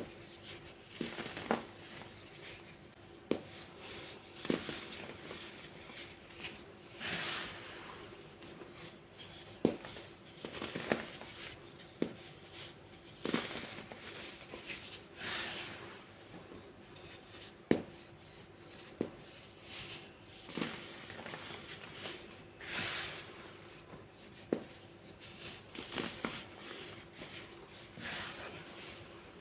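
Crunchy dried baking soda being crushed and crumbled: sharp cracks every second or two, with a few longer powdery crumbling passes in between.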